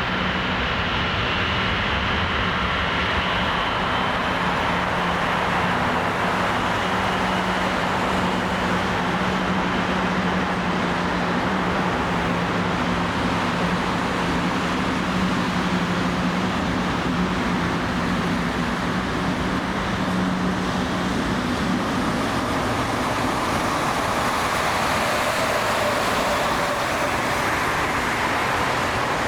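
Steady rumble of engines with no speech, carrying a low steady hum that fades out about two-thirds of the way through.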